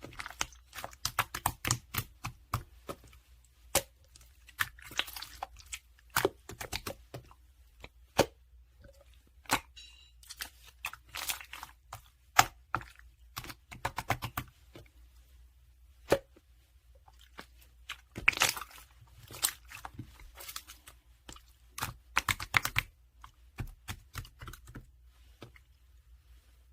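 Purple pearl slime being squeezed and worked by hand, giving clusters of irregular crisp crackles, clicks and pops.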